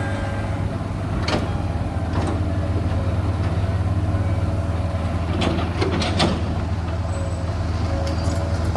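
Heavy diesel machinery running steadily with a deep hum, with a few sharp knocks or clanks cutting through, the loudest close together about five to six seconds in.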